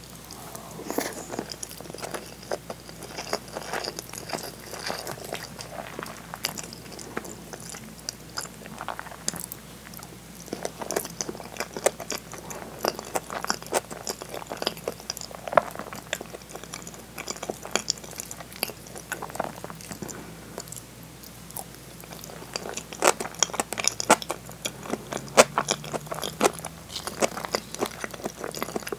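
Close-miked chewing of rice, with many small wet mouth clicks and smacks that grow denser and louder near the end.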